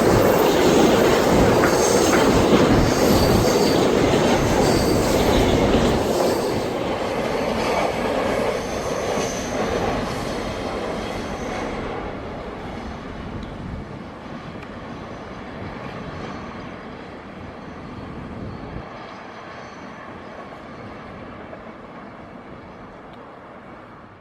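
Loaded freight wagons of a long train rolling past on the rails, wheels squealing and clattering, then the sound fades steadily as the train moves away.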